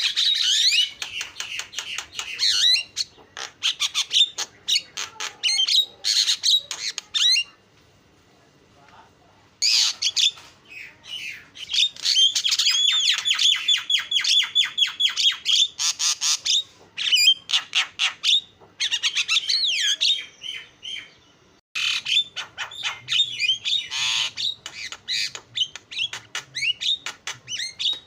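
Javan myna (jalak kebo) singing: long phrases of rapid, harsh chattering and squawks, broken by short pauses about eight seconds in and again about twenty seconds in.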